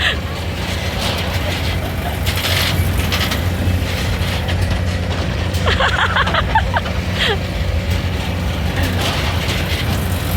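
Steady low mechanical hum of an amusement ride running, with a few short high squeals from a rider around the middle.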